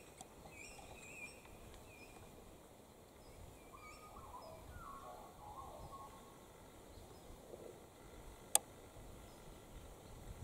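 Faint wild bird calls: a few short high chirps in the first second or so, then a short run of lower sliding notes about four to six seconds in. A single sharp click sounds a little past eight seconds.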